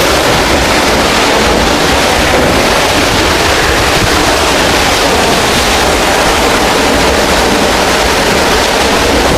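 Waterfall heard close up: a loud, steady, very noisy rush of falling water.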